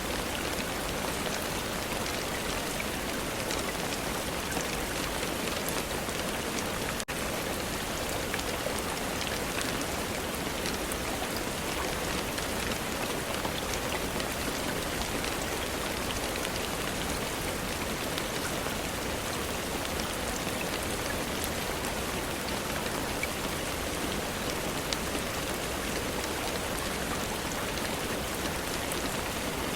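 Steady rain falling: an even hiss with many small drop ticks, and a momentary dropout about seven seconds in.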